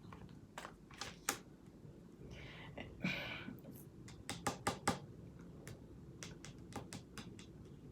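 Tarot cards being handled: a scattered series of sharp card clicks and taps, with a short swish of cards sliding against each other about three seconds in.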